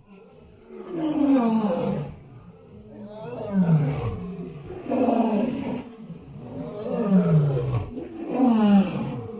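An animal calling again and again, about five drawn-out cries, each falling in pitch.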